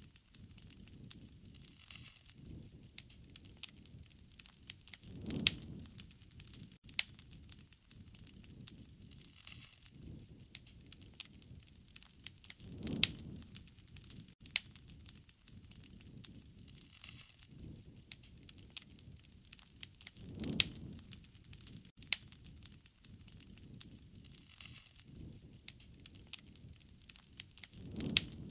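Wood fire crackling, with frequent sharp snaps and pops and a low rushing swell about every seven to eight seconds.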